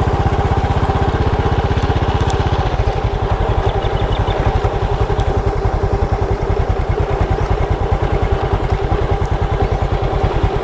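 Motorcycle engine running steadily while riding, a fast even firing pulse with no change in speed.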